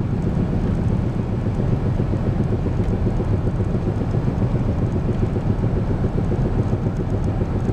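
Four-wheel-drive pickup truck's engine and tyre noise heard from inside the cab while driving, a steady low rumble.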